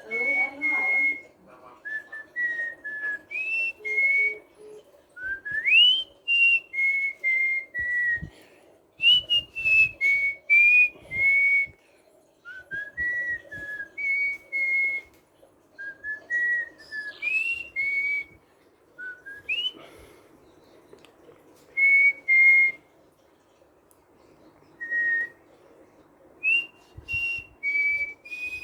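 Albino cockatiel whistling a melody in short phrases of clear notes, some swooping upward, with pauses between phrases, over a faint steady low hum.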